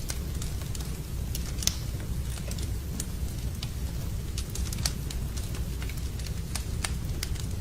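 Wood campfire crackling, with sharp irregular pops scattered throughout over a steady low rumble.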